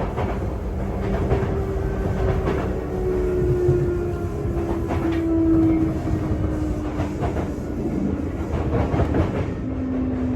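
Sotetsu 8000 series (equipment-renewed) electric train, heard inside a motor car as it slows for a station stop. A motor whine falls slowly in pitch over the running noise, with repeated clicks from the wheels on the rails.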